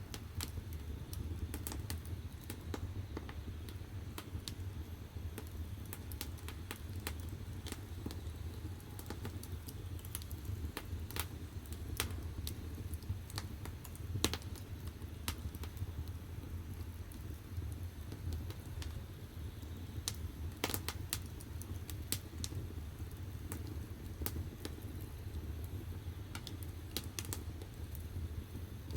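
Firewood burning in the firebox of a wood-fired bath heater: a steady low rumble of the fire with irregular sharp crackles and pops from the burning wood.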